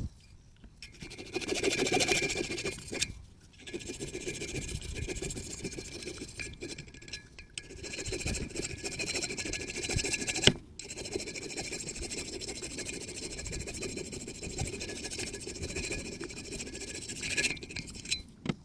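Long bouts of scraping by hand on mini-bike engine parts, broken by brief pauses, with one sharp click about ten seconds in.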